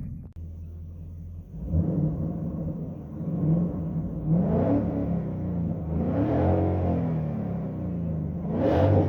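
2021 Mustang GT's 5.0 L Coyote V8 through a Borla ATAK cat-back exhaust, revved from idle several times. The pitch rises and falls about five times, with the strongest rev near the end.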